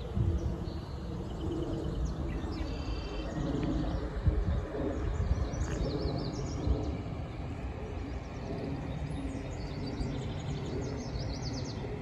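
Small birds chirping and singing in short, repeated trills, over a steady low outdoor rumble.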